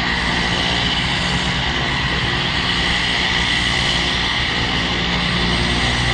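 Turbine-powered military aircraft running steadily at an even level, with a steady high whine over a low engine drone.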